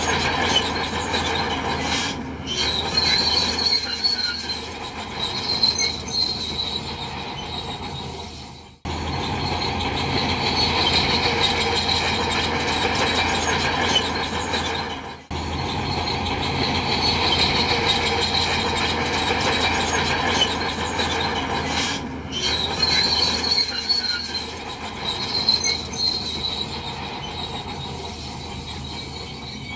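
Bulldozer working: the engine runs under load while the steel tracks squeal and grind. The sound cuts out sharply twice, about a third and halfway through.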